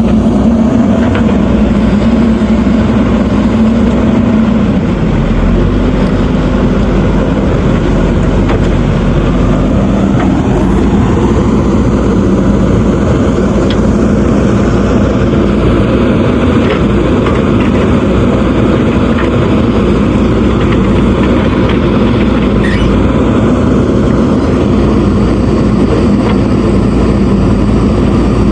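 JCB 3DX backhoe loader's diesel engine running steadily under working load, with small shifts in pitch about five and ten seconds in.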